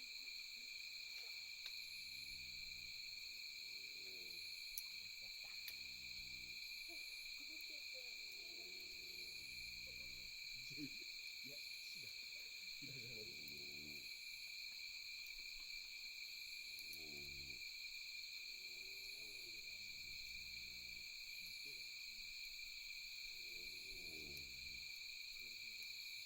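Steady, high-pitched night insect chorus with faint low calls rising and falling every few seconds underneath. A few sharp crackles from the wood campfire.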